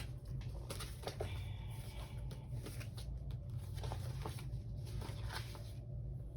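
Paper and sticker sheets being handled at a desk: light rustling with scattered small taps and clicks, over a steady low hum.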